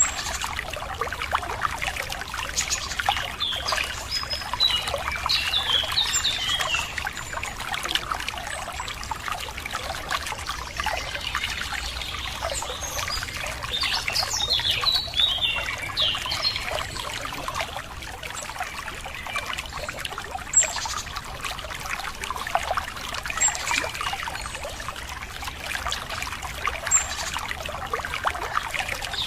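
Water trickling and splashing over stones in a small stream, with birds chirping and twittering over it, busiest in two patches early on and in the middle.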